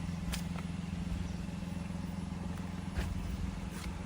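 Steady low engine hum of an idling vehicle, with a few faint clicks, one about three seconds in.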